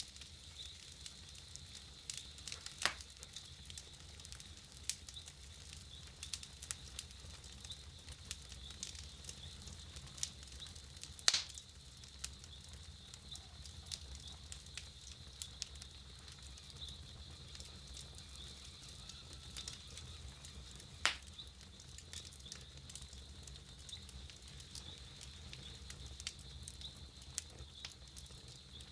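Campfire crackling steadily with many small sharp snaps and three louder pops.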